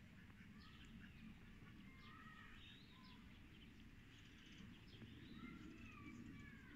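Faint outdoor birdsong: scattered short chirps and little whistled glides from small birds, over a low steady outdoor rumble.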